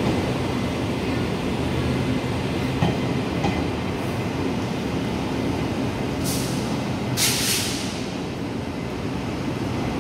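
Taiwan Railways freight train pulling out with a steady low rumble. There are a couple of knocks about three seconds in, and two sharp hisses of air around six and seven seconds in.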